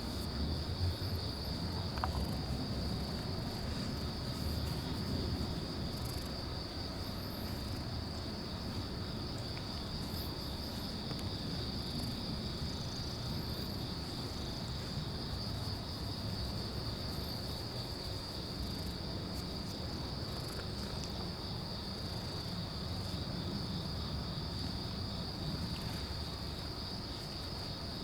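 Insects, crickets or similar, trilling steadily in a continuous high chorus, over a low rumbling background.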